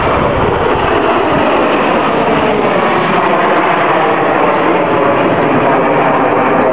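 Jet noise of BAE Hawk T1 jets flying past, a loud, steady rushing noise with a faint falling pitch early on.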